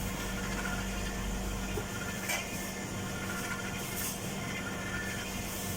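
Electric mixer motor running steadily as it beats flour into cake batter, with a constant hum; its lowest rumble drops away about two seconds in.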